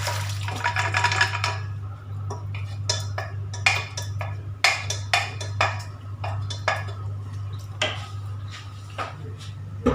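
Cooked chicken and its liquid tipped from the pressure cooker into a pan for about the first second and a half, then a spoon clinking and scraping against the pan in irregular knocks as the chicken is stirred in. A steady low hum runs underneath.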